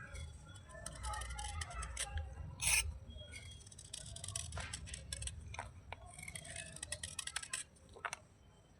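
Wet slate pieces crunching and crumbling, with irregular crackling, scraping and sharp clicks. It goes quieter near the end.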